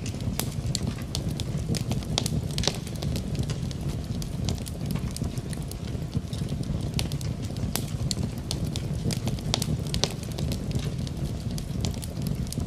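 Wood fire crackling in a fireplace: irregular sharp pops and snaps over a steady low rumble, with the even patter of rain mixed in.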